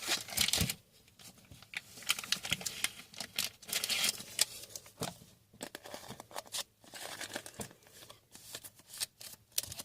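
Trading cards and their plastic wrapping being handled: brief crinkling and rustling with small clicks, loudest in the first second, then quieter and scattered.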